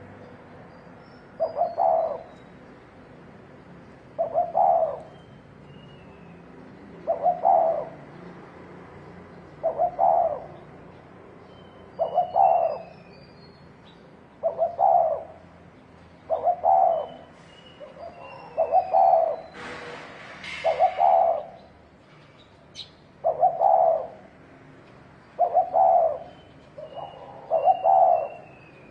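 Spotted dove cooing repeatedly, a short multi-note coo phrase about every two and a half seconds. Thin, high, falling twitters of a small bird come between the coos, and there is a brief rustle about 20 seconds in.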